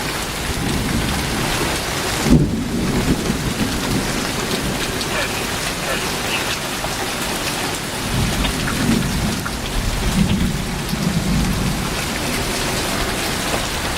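Heavy thunderstorm rain pouring steadily, with a sharp bang about two seconds in and thunder rumbling low between about eight and twelve seconds in.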